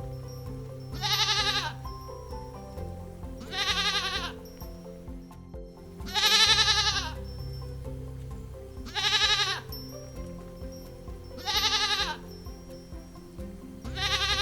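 Sheep bleating, six wavering calls of under a second each, about every two and a half seconds, over background music with sustained low chords.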